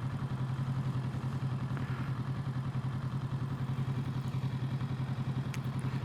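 A 2021 Kawasaki Z650's parallel-twin engine idling steadily at an even, unchanging pitch, heard through a helmet-mounted recorder.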